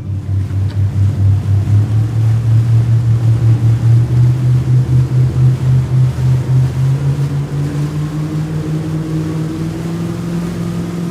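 Boat motor running, its pitch climbing slowly as it speeds up.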